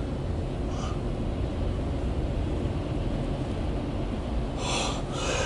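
Empty autorack freight train rolling past: a steady low rumble of steel wheels on rail, with a brief hiss about four and a half seconds in.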